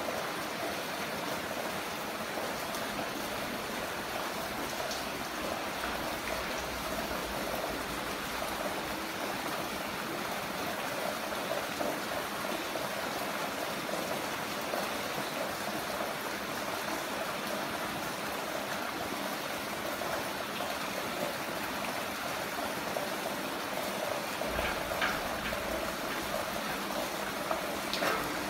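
Heavy rain falling steadily, an even dense hiss of water, with a few sharper drip sounds near the end.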